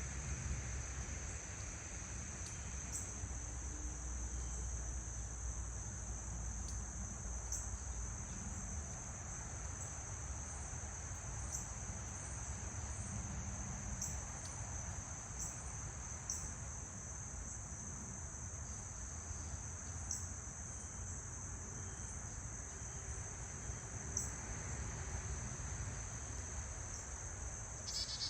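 Steady chorus of insects, such as crickets, making one continuous high-pitched trill, with a low rumble of background noise underneath.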